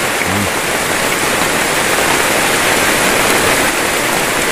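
Heavy rain pouring down on the shelter's roof, a dense steady hiss.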